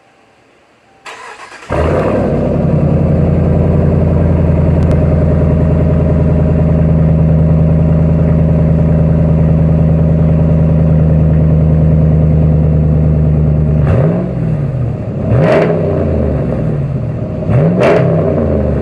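2018 Ram 1500 pickup's engine, its exhaust running through a muffler delete and a custom stainless Y-pipe, is cranked and catches about a second in, then idles steadily. It is revved three times near the end, each rev rising and falling.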